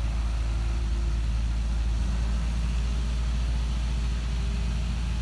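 A train standing at the station, its engine and equipment running steadily with a low, even rumble.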